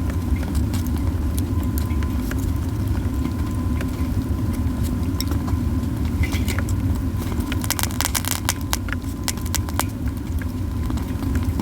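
Pine cones burning in a campfire, crackling with many sharp pops, a quick cluster of them about eight seconds in, over a steady low rumble.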